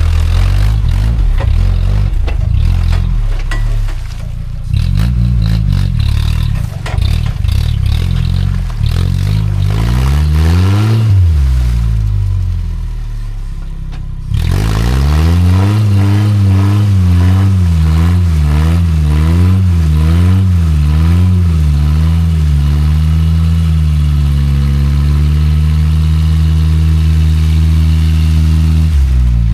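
Old Jeep Cherokee's engine revving hard under load off-road, its pitch rising and falling repeatedly. About halfway through it eases off briefly, then jumps back to high revs, wavers, and holds there, with some clatter and scraping.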